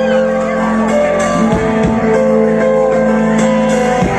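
Live rock band playing amplified through a PA, with electric guitars ringing out sustained chords and a few sharp drum strokes.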